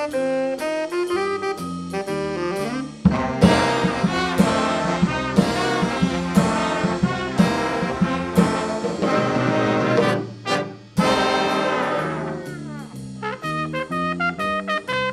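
A band led by brass instruments, trumpets and trombones, playing an instrumental piece. The full band comes in louder about three seconds in, breaks off briefly past the middle, and comes back in.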